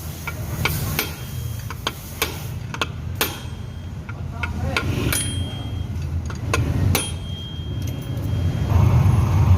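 Scattered metal clicks and knocks of hand tools and parts being handled during work on a Honda Beat scooter's CVT gearbox, over a steady low rumble that grows louder near the end.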